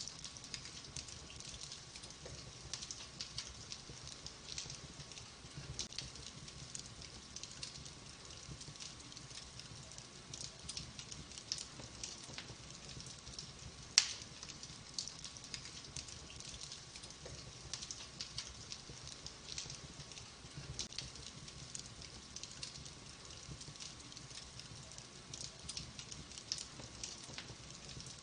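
Logs burning in a wood fire, crackling with many small irregular pops and one louder pop about halfway through.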